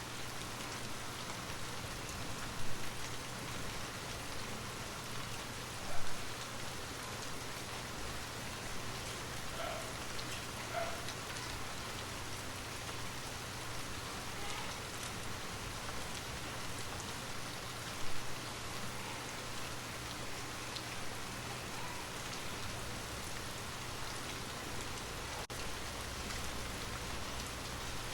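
Steady rain falling, an even hiss of drops on a surface, with three brief louder sounds standing out against it.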